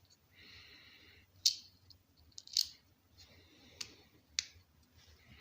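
Small chainsaw carburetor parts being handled and fitted together by hand: four sharp clicks, with two short stretches of light scraping.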